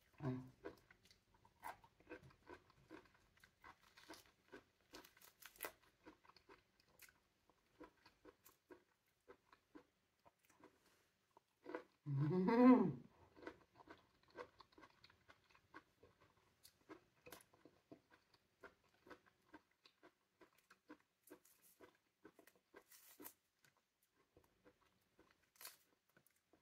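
Close-up eating sounds of pomelo: soft chewing and mouth clicks over the light crackle of the segment membrane being peeled apart by fingers. About twelve seconds in, a short voiced hum that rises and falls in pitch stands out as the loudest sound.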